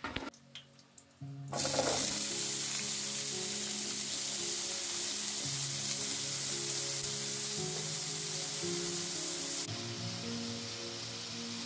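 Raw potato sticks frying in hot oil in a pan: a loud, steady sizzle that starts suddenly about a second and a half in and drops lower near the end. A few light clicks of utensil on plate and pan come before it.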